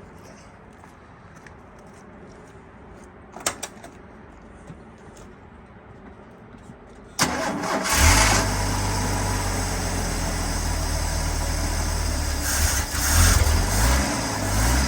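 Ford 300 cubic-inch inline-six engine of a 1983 F-150 on a cold start near freezing: a few faint clicks, then about seven seconds in it cranks and fires suddenly and settles into a steady idle, with the engine speed rising and falling briefly near the end.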